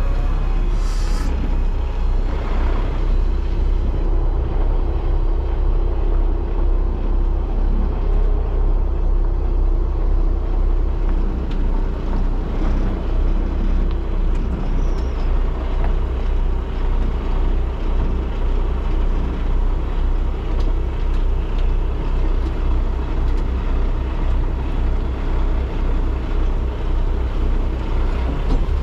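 Semi truck's diesel engine running steadily while the truck is backed up, with a short hiss of air about a second in.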